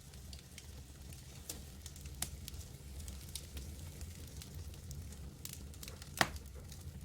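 Campfire burning, wood crackling with scattered sharp pops over a steady low rumble; one louder pop about six seconds in.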